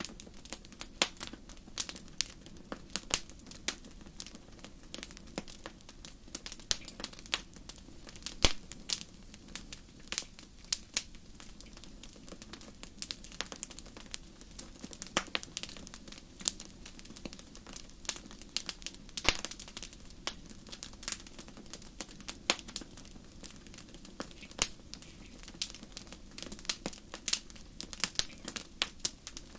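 Wood campfire crackling: irregular sharp pops and snaps, several each second, with a few louder cracks, over a steady low rush from the burning fire.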